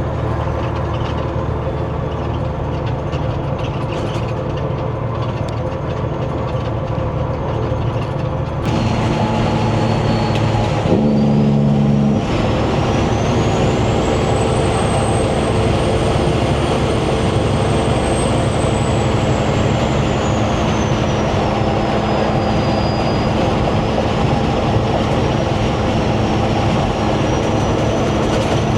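Semi truck's diesel engine running steadily while driving, heard inside the cab. About nine seconds in it gets louder, and a high whine climbs, holds, then falls again.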